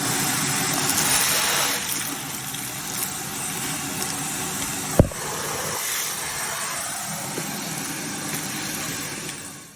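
Kärcher WD2 wet and dry vacuum cleaner's motor running steadily, with one sharp click about halfway through; the sound cuts off abruptly near the end.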